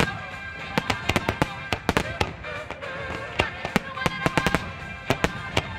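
Fireworks display: a rapid, irregular string of sharp bangs and crackles, several a second, over music with held tones.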